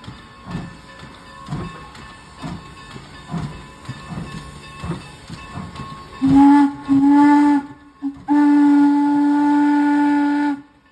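Steam locomotive working with exhaust chuffs about once a second. About six seconds in its whistle sounds two short blasts and then one long blast; the locomotive is Norfolk & Western 4-8-0 No. 475.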